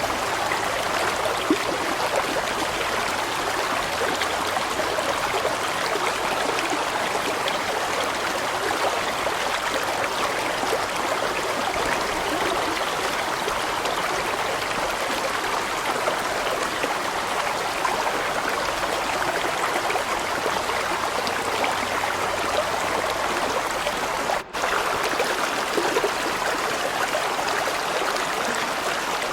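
A large stream rushing and splashing steadily over rocks, with one momentary break in the sound near the end.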